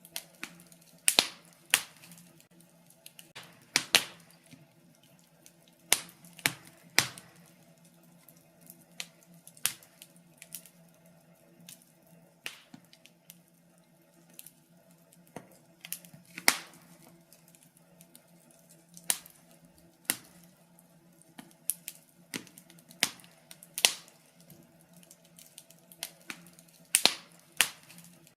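Wood fire in a fireplace crackling: irregular sharp snaps and pops, often in quick pairs or small clusters, about one a second, over a faint steady low hum.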